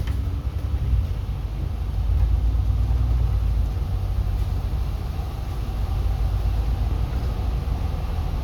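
Steady low rumble of a city bus running, heard from inside the passenger cabin.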